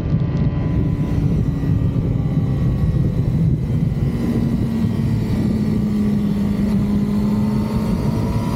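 2006 Yamaha R6's inline-four engine on its stock exhaust, running at fairly steady revs, with the pitch rising slightly over the last few seconds.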